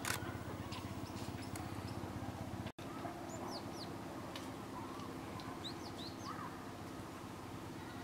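Small birds giving a few brief, thin, high chirps, in two short clusters near the middle and later on, over a steady low hum. The sound cuts out for an instant a little before the first chirps.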